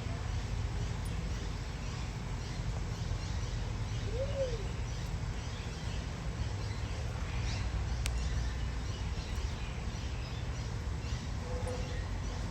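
Birds chirping softly throughout, with one short hooting call that rises and falls in pitch about four seconds in and a brief low note near the end, over a steady low rumble.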